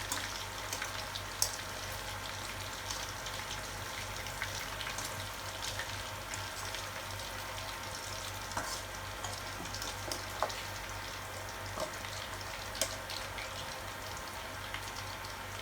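Pork pieces deep-frying in hot oil: a steady sizzle with scattered sharp crackles and pops.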